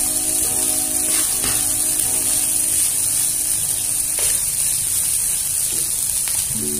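Fried rice sizzling in a nonstick pan as a metal spoon stirs and scrapes it, with a few short scrapes standing out. Background music plays in the first half and returns near the end.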